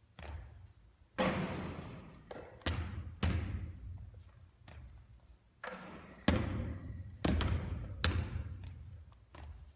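A basketball bouncing and thudding on a hard court during shooting practice: about ten separate hits at uneven intervals, each one ringing on briefly before it fades.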